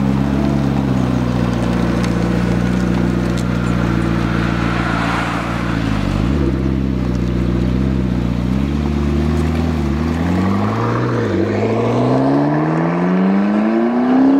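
McLaren MP4-12C's twin-turbo V8 running at low revs as the car pulls away, its pitch dipping briefly a few times. Over the last few seconds it rises steadily as the car accelerates.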